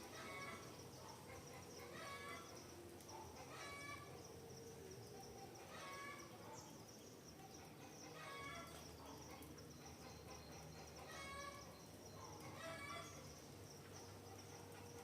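Faint forest ambience: a bird's short call repeating about every two seconds over a steady high-pitched insect drone.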